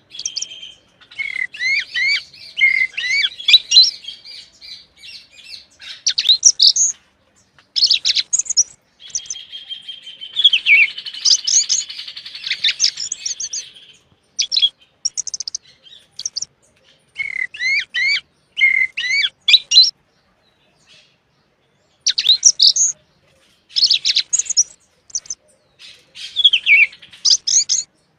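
A songbird singing in varied phrases of quick whistled glides and chirps, with a longer rapid trill about ten seconds in and short pauses between phrases.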